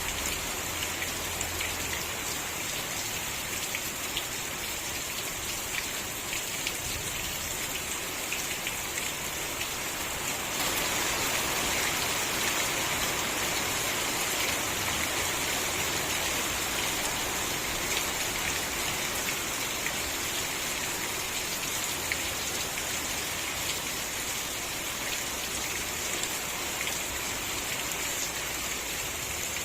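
Steady rain falling, with single drops ticking on a surface. It grows slightly louder about ten seconds in.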